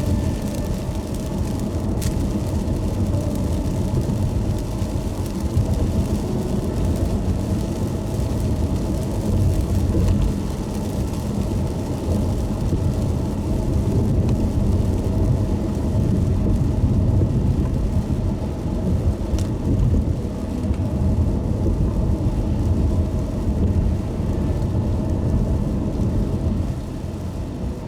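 A car driving in the rain: a steady low rumble of engine and tyres on the wet road, with an even hiss of rain and spray over it. Two short ticks come through, one about two seconds in and one about nineteen seconds in.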